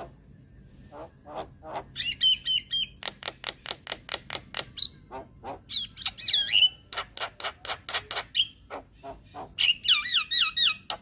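Javan myna (jalak kebo) calling: a fast run of short, harsh chattering notes, broken three times by warbling whistled phrases.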